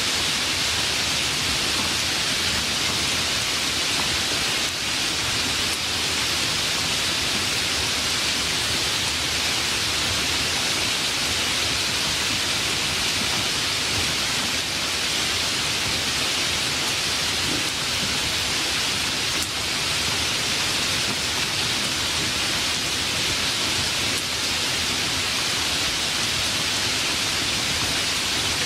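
Steady, even heavy rain.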